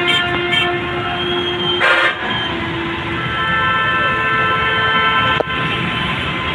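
Vehicle horns blaring over passing traffic: a long, steady multi-note horn, with short extra blasts at the start and about two seconds in.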